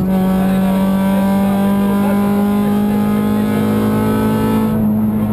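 Honda Civic VTi rally car's four-cylinder engine heard from inside the stripped, caged cabin, running hard at a steady, nearly unchanging pitch, with road and tyre noise underneath.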